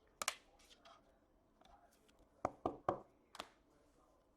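Hands handling trading cards and packaging on a table, making a few light taps and clicks: two near the start, then a quick run of three about halfway through, and one more shortly after.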